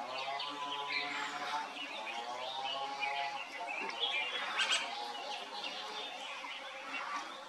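Birds chirping and twittering in quick, overlapping calls, with soft background music of held notes under them for the first few seconds.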